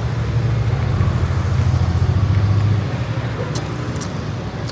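A motor vehicle's engine running close by, a low steady rumble that eases off a little under three seconds in. Two short clicks come near the end.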